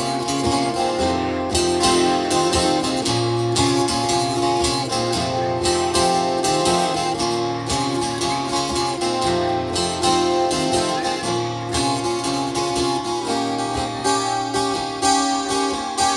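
Strummed acoustic guitar chords playing the instrumental intro of a song, with steady low notes underneath.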